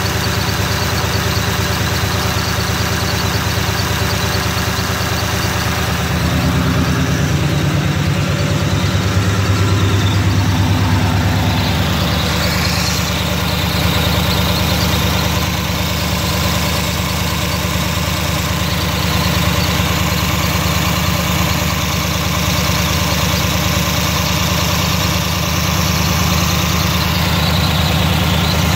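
Ford 21-stud flathead V8 engine idling steadily, a little louder for a few seconds partway through.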